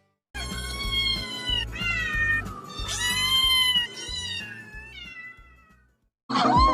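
Domestic cat meowing several times in a row, each meow a drawn-out cry that bends in pitch, over background music.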